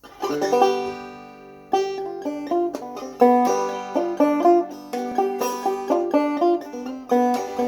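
Open-back Deering banjo with a 20-hole flathead tone ring, played clawhammer style. An opening phrase rings out and fades for about a second, then a steady rhythmic picked melody follows.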